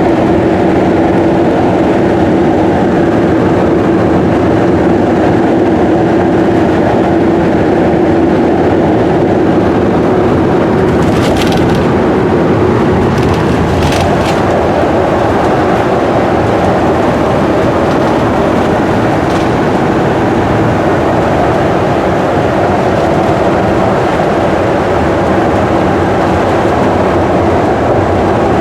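Steady road and engine noise inside a vehicle driving at highway speed, with a constant hum. A few brief rattles or clicks come about 11 and 14 seconds in.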